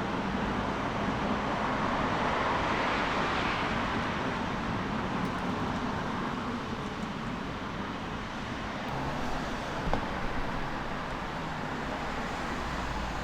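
Motor vehicle and road traffic noise: a steady rumble with a vehicle passing, loudest about two to four seconds in.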